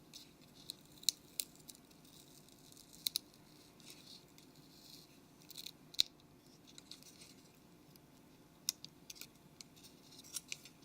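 Faint scattered clicks and soft scratching of small phone parts being handled, as double-sided tape is peeled away from a phone screen's flex cable.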